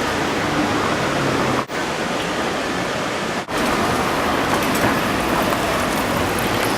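Steady city street noise with road traffic running, broken twice by very short gaps.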